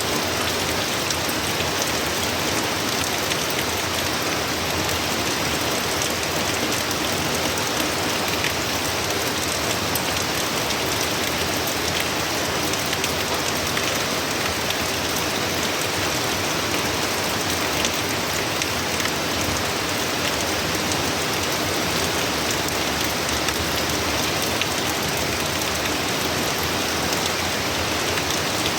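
Heavy hurricane rain falling steadily, a dense even hiss with many small drop ticks on surfaces.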